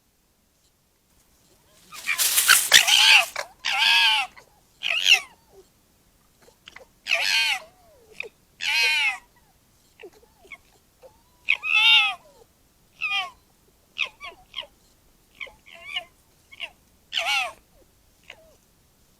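A deer's shrill, scream-like calls, repeated about a dozen times. Each call is short and arches down in pitch, and the first few are the loudest.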